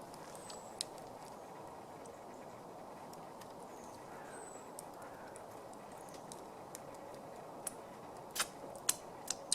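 Wood fire under a camp grill burning with a steady low hiss. It gives a single sharp crack about a second in and a quick run of louder pops and cracks near the end. Faint short high bird chirps sound twice.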